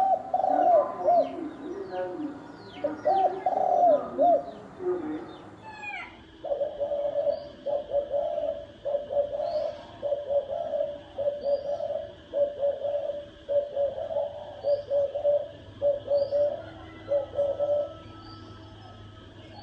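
Spotted doves cooing. About six seconds in, the calling changes to a steady run of short repeated coos that stops a couple of seconds before the end. Faint high chirps of other birds sound over it.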